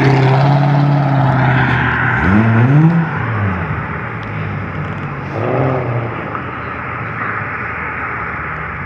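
Car engine revving: held at high revs, then a sharp rev that rises and drops off about three seconds in, a shorter blip a couple of seconds later, and then a lower, steadier running sound.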